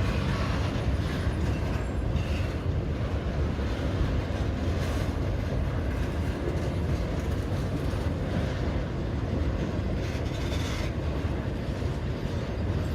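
Manifest freight train's cars rolling past on the rails, a steady low-heavy noise of wheels on track.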